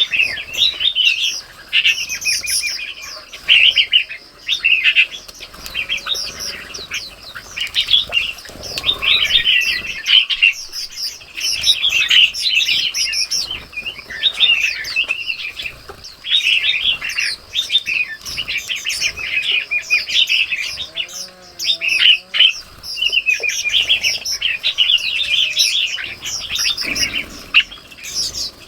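Songbirds chirping and calling busily, with many short overlapping calls, in a garden chorus.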